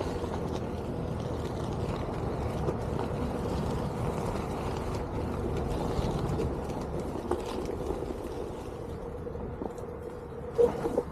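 Onewheel GT electric skateboard rolling along a trail: the hub motor's steady hum over tyre and rolling noise, the hum fading near the end, with a few short knocks just before the end.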